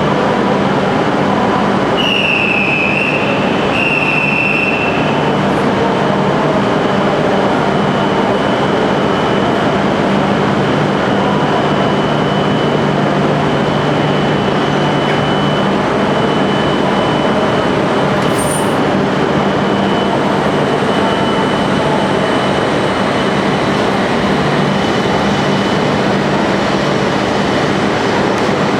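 Shinkansen train running: a steady, loud rushing rumble with a constant motor hum. Two short high squeals come a couple of seconds in.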